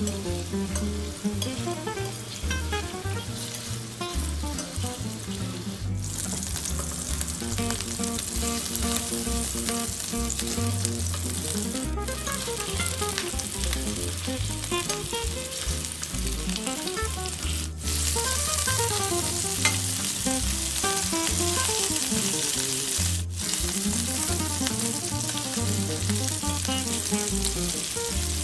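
Beef meatballs frying in a stainless steel pan: a steady sizzle that gets louder in the second half, under background music.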